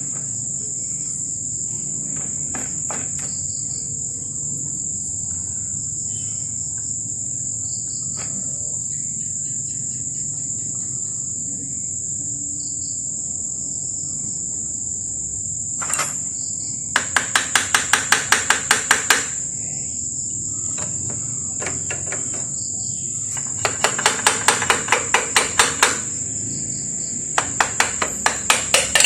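Steady high-pitched chorus of crickets, with three runs of rapid hammer taps on metal, about six strikes a second, in the second half. The taps come from work on a 125cc scooter's rear brake and kick-start assembly.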